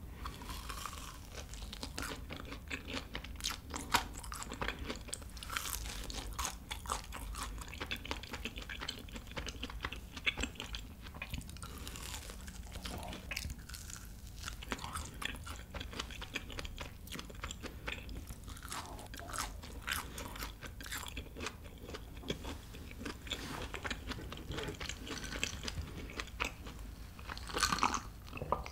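Close-miked chewing of fried chicken and a fried cheese ball, with many small irregular crunches of the fried coating. There are a few louder sounds near the end as she drinks from a cup.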